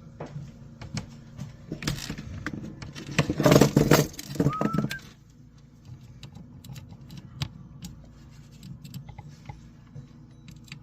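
Light clicks and rattles of hands working at a household breaker panel to shut off a circuit's power, with a louder clatter about three to five seconds in that includes a short rising squeak.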